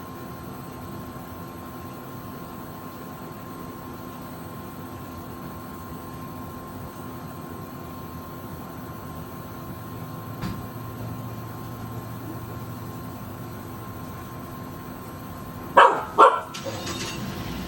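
A dog barking twice in quick succession near the end, over a steady background hiss and hum. About ten seconds in there is a faint low rumble.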